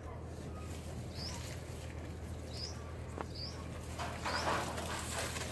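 A few short, high chirps from small birds, each a quick rising note, over a steady low hum, with a brief rustle near the end.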